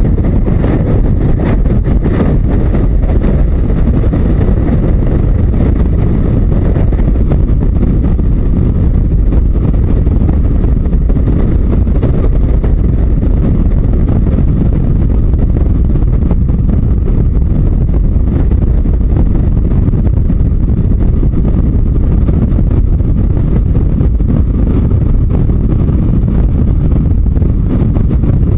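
Heavy wind rush on the microphone over the Yamaha Diversion 900's air-cooled inline-four engine, steady while riding along at road speed.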